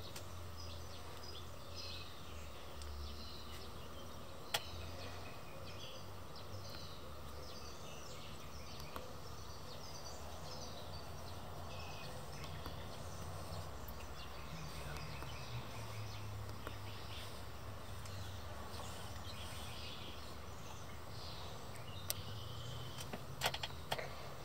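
Birds chirping and calling over a low steady hum. A single sharp click comes about four and a half seconds in, and a few more near the end.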